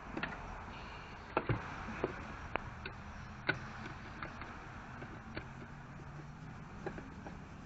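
Scattered light clicks and knocks, irregular and a few seconds apart, the strongest pair about a second and a half in, over a faint steady low hum: small handling noises of tools and parts.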